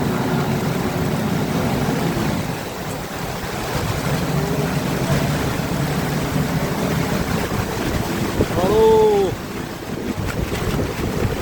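Heavy rain pouring down, with wind buffeting the microphone. A steady low hum sits underneath for the first couple of seconds, and about nine seconds in a short pitched sound rises and falls.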